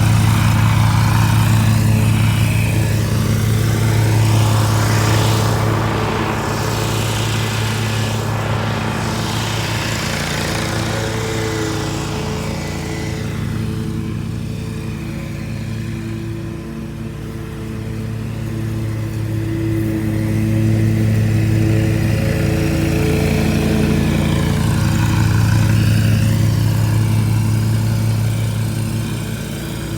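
John Deere Z970R zero-turn mower running at mowing speed: a steady engine drone that eases off a little about halfway through, then swells back up.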